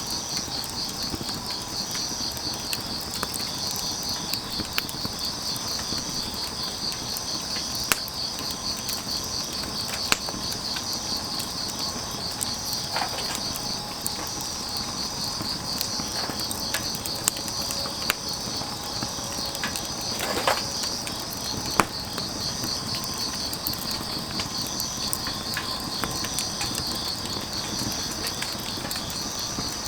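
Crickets chirping in a steady, pulsing high trill, with a wood fire crackling and giving occasional sharp pops, over a steady background hiss.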